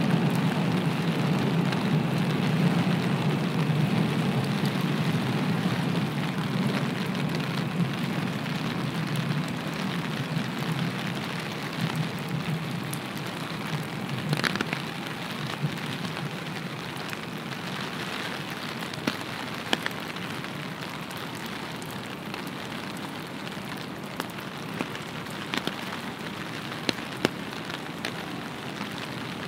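Steady rain falling, with scattered sharp drip clicks that stand out more in the second half. A low rumble under the rain fades away over the first several seconds.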